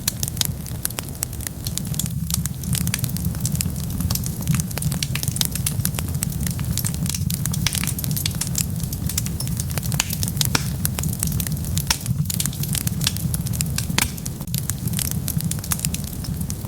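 Wood fire burning in a fireplace, with a dense, irregular run of sharp crackles and pops over a steady low rumble.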